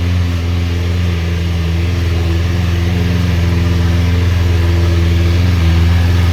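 Lamborghini Aventador LP720's V12 engine idling steadily through a Fi Exhaust catless valvetronic exhaust, holding an even, deep note at constant pitch.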